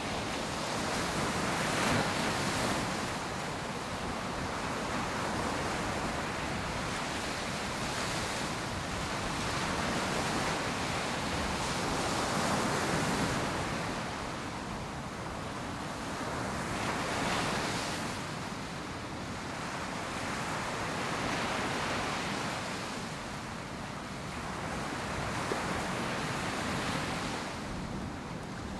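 Ocean surf breaking and washing up a sandy beach, a continuous rush that swells and eases every few seconds, with some wind on the microphone.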